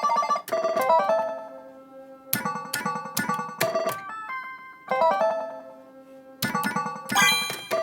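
Oohanabi pachislot machine making its electronic play sounds: short synthesized tones and chimes with sharp starts, coming in quick groups of two to four as the game runs.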